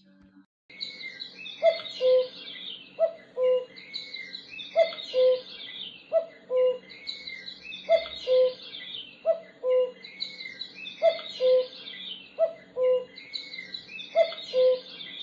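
Birdsong: a low, falling two-note call repeats about every second and a half over higher chirping. It starts about a second in and cuts off suddenly at the end.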